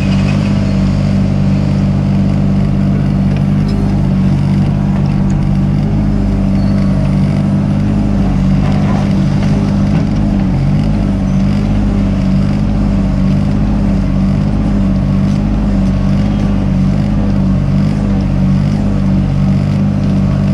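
Mini excavator's diesel engine running steadily at working speed, its pitch wavering slightly about halfway through as the load changes.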